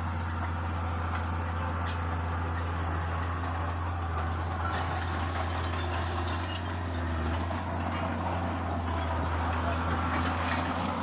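Komatsu D31P bulldozer's diesel engine running steadily, a deep continuous drone with a few faint clicks over it.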